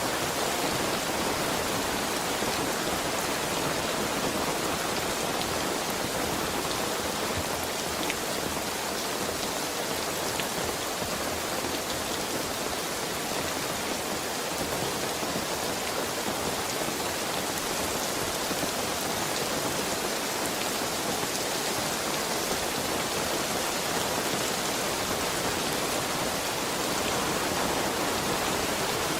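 Heavy rain falling steadily, a dense even hiss with scattered drops striking a surface.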